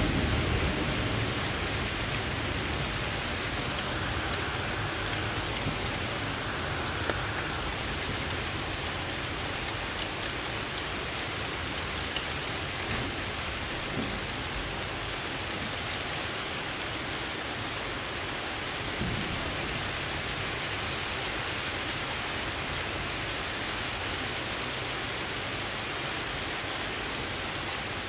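Steady rain falling: an even hiss, with a faint tick here and there.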